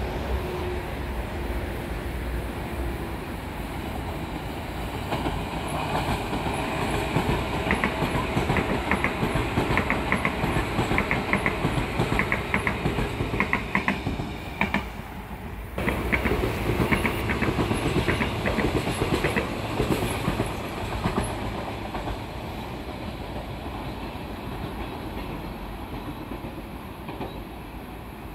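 A train passing close by on the electrified coastal line, its wheels clacking in a steady rhythm over the rail joints. It grows louder to a peak through the middle, with a brief drop-out about halfway, then fades away as it recedes.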